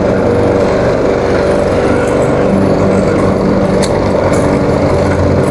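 Walk-behind lawn mower's 140cc Powermore single-cylinder engine running steadily at working speed while cutting grass.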